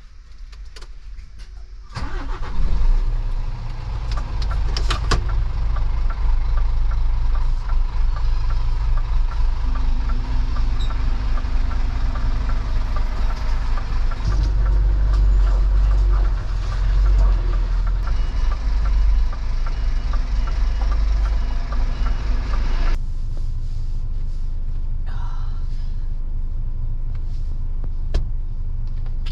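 Lorry's diesel engine starting about two seconds in and then running steadily, its level dropping noticeably near the end.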